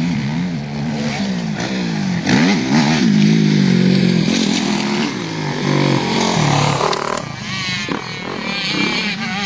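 Motocross bike engines revving up and falling away again and again as they ride the track. The revving is loudest a couple of seconds in, and a second, higher-pitched bike joins near the end.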